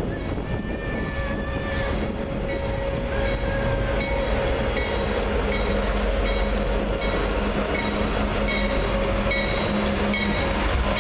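A train rolling past: a steady rumble and drone, with a short click that repeats at an even pace as the wheels cross rail joints.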